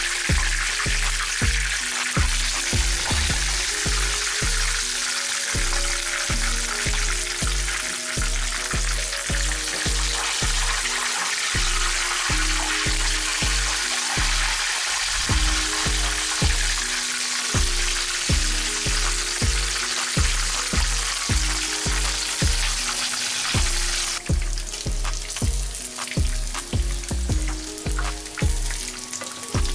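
Chicken wings frying in hot oil in a pan, a dense steady sizzle that thins to a sparser crackle with popping about three-quarters of the way through. Background music with a steady bass beat plays under it.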